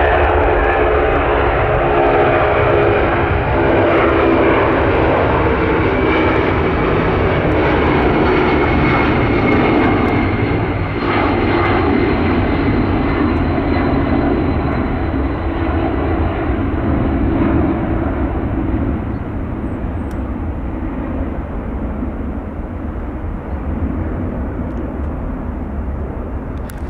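Airliner jet engines running as the plane passes: a steady, loud rumble with a high whine that drifts slowly down in pitch, easing off somewhat in the second half.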